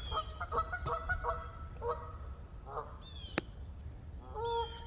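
Geese honking: a quick run of calls in the first second or so, a few scattered honks after, and a louder honk near the end. A single sharp click comes about three and a half seconds in.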